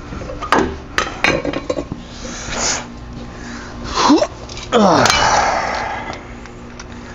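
Metal tools clinking and knocking during wheel hub removal, then two short bursts of a power tool whose pitch falls as it winds down, the second trailing off over about a second.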